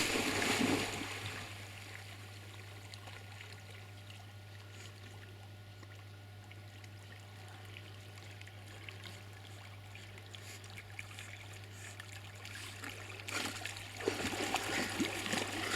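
A dog splashing about in lake water: splashes at the start, a quieter stretch, then splashing again near the end.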